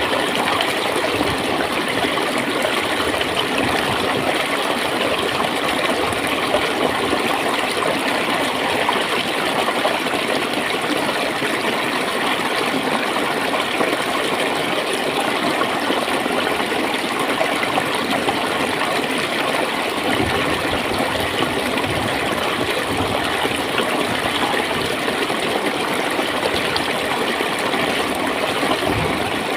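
Steady flowing water: a stream running and gurgling, with an even rushing hiss that does not change.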